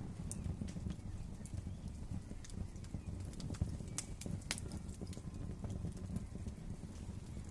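Wood fire crackling in a fireplace: a steady low rumble of flames with irregular sharp pops and snaps scattered through, one of the sharpest about halfway through.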